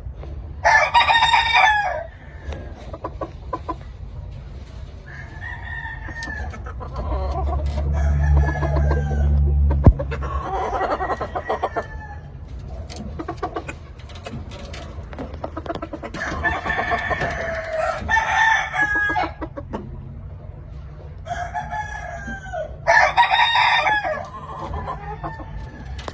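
Gamecocks crowing: three loud crows, one about a second in, one past the middle and one near the end, with softer clucks and calls between them. A low rumble swells under the calls around the middle.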